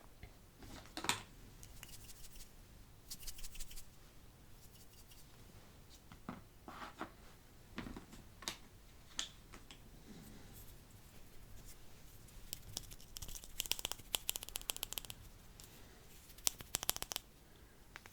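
Wet mouth sounds for spit painting: scattered clicks and smacks, with two runs of rapid crackling clicks in the last third.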